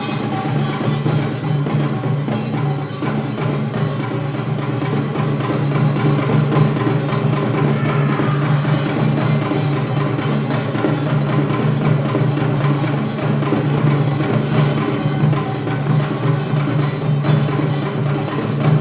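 Korean traditional percussion ensemble (janggu, kkwaenggwari, buk and jing) playing a fast, dense rhythm of strokes over a steady low held tone.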